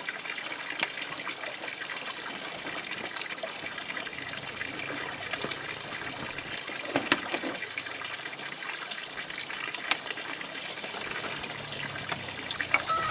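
Water running or trickling steadily, with a few sharp clicks or knocks.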